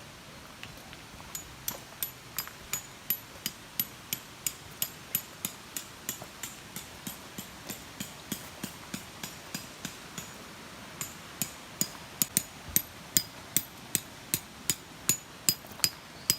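Hammer driving a metal tent peg: ringing metallic strikes, about three a second, in two runs with a short pause in between. The second run is louder.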